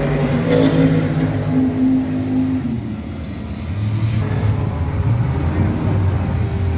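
Car engine running with a steady held note, which drops to a lower note about three seconds in.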